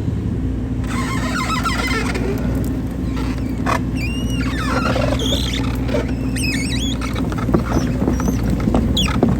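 Hydraulic excavator's diesel engine running steadily, with repeated metallic squeaks and creaks starting about a second in as the machine begins working.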